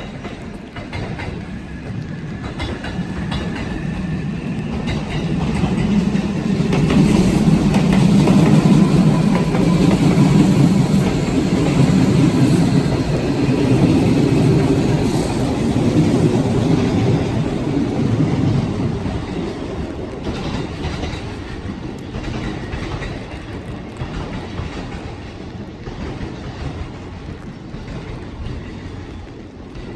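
A train passing by on the rails, its low rumble and clatter swelling over several seconds, loudest for about ten seconds, then fading away after about twenty seconds.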